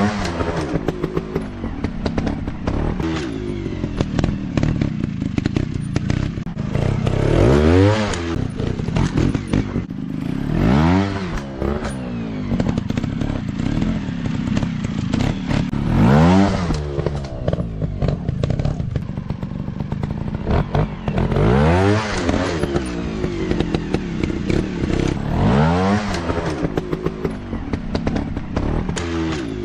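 Small off-road motorcycle engines running, the pitch rising sharply and dropping back about five times as the bikes are revved hard, with clatter and knocks from the bikes over rough ground.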